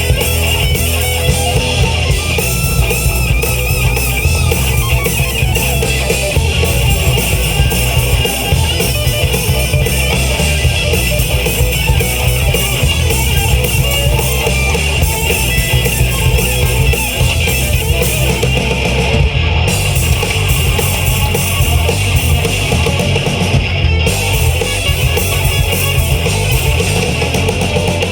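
Live heavy rock band playing: distorted electric guitars, bass guitar and drum kit, loud and steady without a break.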